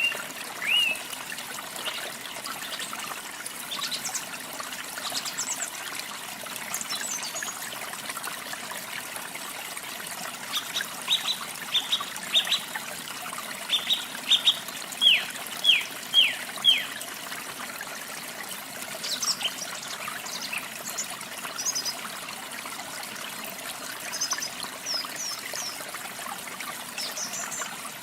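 Water running steadily from a waterfall, with wild birds chirping over it. About ten seconds in, a bird gives a run of quick downward-sweeping chirps for several seconds, and thinner, higher notes follow in the second half.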